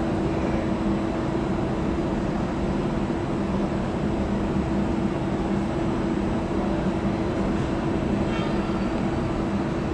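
Frecciarossa 1000 (ETR 400) electric high-speed train rolling slowly toward the listener through station pointwork, a steady low hum under its running noise.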